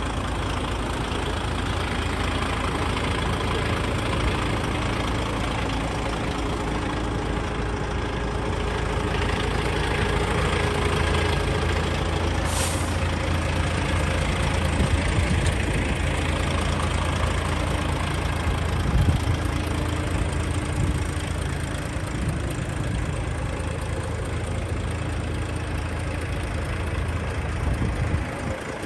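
DAF XF105.460 truck's 12.9-litre PACCAR MX six-cylinder diesel idling steadily, with a short hiss of air about 13 seconds in and a single knock a few seconds later.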